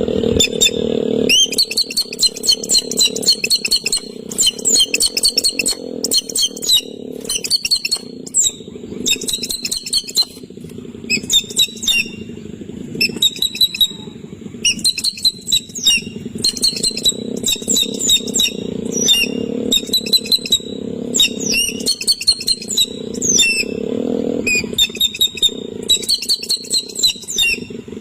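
A bird calling in rapid chattering bursts of short high notes, one burst every second or two, over a steady low hum.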